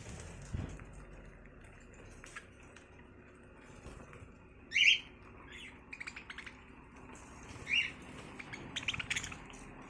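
Caged or farm birds chirping: scattered short, high calls, the loudest about five seconds in, with quick flurries of chirps around six and nine seconds.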